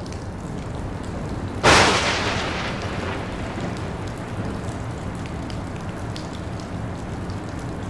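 Recorded rain sound effect plays steadily. About two seconds in, a thunderclap sound effect, boosted by 6 dB, strikes suddenly and loudly, then dies away over a second or so.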